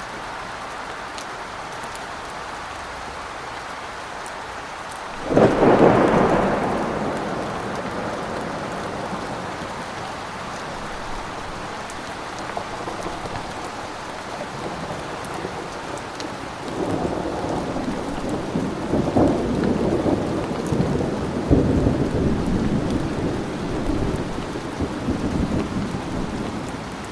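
Thunderstorm: steady rain falling throughout. A sudden thunderclap comes about five seconds in and rumbles away over a few seconds, then a longer spell of rolling thunder fills the second half.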